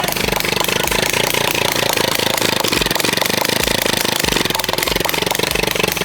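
Dirt bike engine running with a rapid, rattling beat, fresh out of a pond and still full of water.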